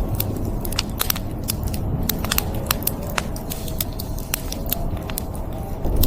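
Wood fire in a fireplace crackling, with many sharp, irregular pops and snaps over a steady low rumble.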